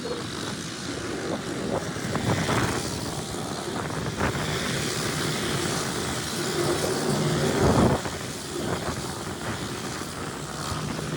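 Racing engines running and passing, with pitch rising and falling, and one loud pass just before eight seconds in.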